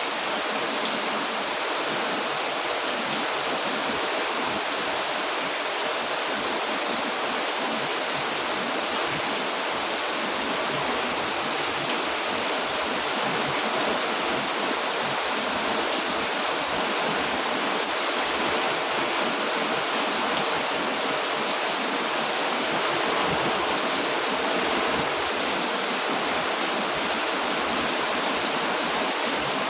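Heavy rain falling steadily, a dense even hiss with no thunder or distinct drops standing out.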